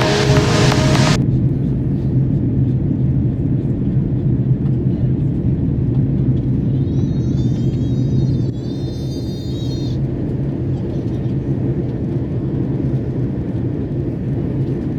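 Steady low cabin roar inside an Airbus A330-300 airliner, with music cutting off about a second in. A faint, high, wavering sound rises over the roar for a few seconds near the middle.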